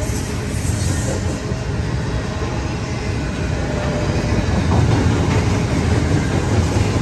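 Double-stack intermodal container well cars rolling past on the track: a steady, loud rolling noise of steel wheels on rail, heaviest in the low end.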